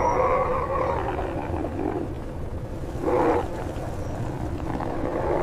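Wolf vocalizing with a drawn-out, wavering howl-like call, and a louder burst about three seconds in.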